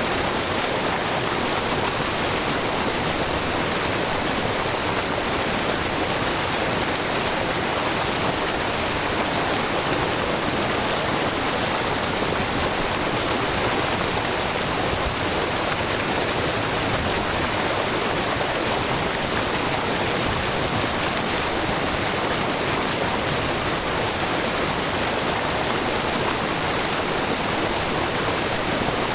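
Wide, low curtain waterfall of spring water spilling from a rock face, together with its brook, making a steady, even rush of falling and splashing water with no breaks.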